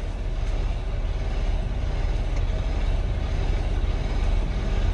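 Semi truck's diesel engine running steadily during a slow straight-line backing manoeuvre, a low, even rumble.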